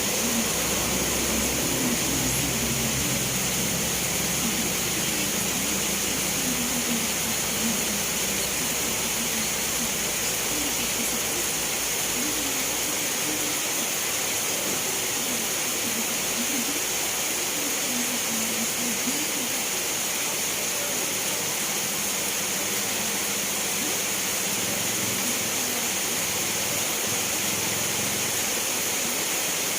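Steady rain falling, an even hiss that does not let up. A faint low hum under it fades out over roughly the first dozen seconds.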